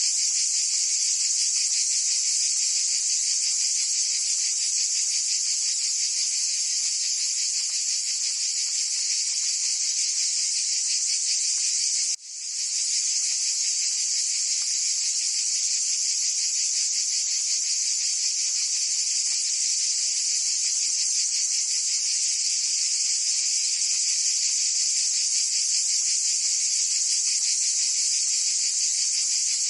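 A dense, steady, high-pitched insect chorus with a fine rapid pulsing. It drops out abruptly about twelve seconds in and fades back up within a second.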